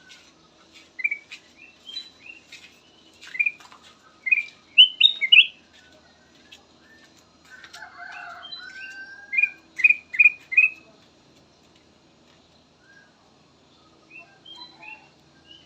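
Kutilang emas bulbul singing: bursts of short, clear chirped whistles separated by pauses, with a lower, rougher warbling phrase about halfway through.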